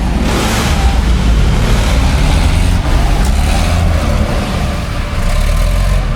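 Heavy off-road truck engine running hard under load, loud and dense, with a brief hissing burst about half a second in.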